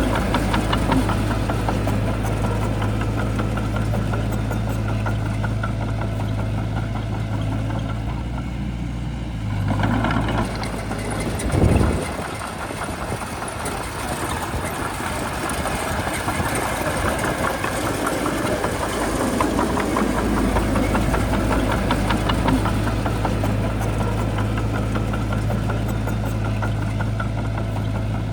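Bulldozer diesel engine running steadily with a low hum. Partway through there is a brief louder surge, then the deep hum thins out for several seconds before it returns.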